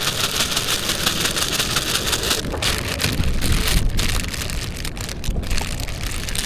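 Seawater splashing and hissing as grapes are rinsed in it: a dense, crackly spray with a few short breaks about halfway through.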